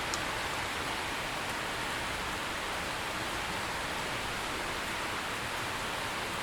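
Steady rain falling, an even hiss with no let-up, and one small sharp tick just after the start.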